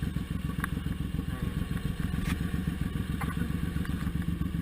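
Suzuki Intruder M1800R's V-twin engine running with a steady, fast, even pulse, with a few faint clicks over it.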